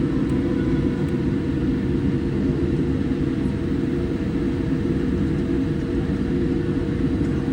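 Steady low rumble of a Boeing 787-8 airliner heard from inside the passenger cabin, with a faint steady hum above it.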